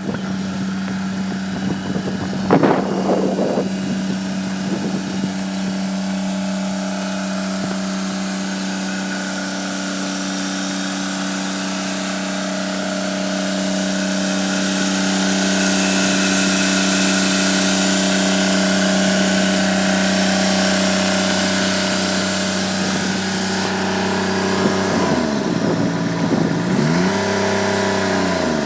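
Toro Z Master zero-turn mower's 25 hp Kubota three-cylinder diesel running at a steady speed, with a brief knock about two and a half seconds in. Near the end the engine speed drops and comes back up twice.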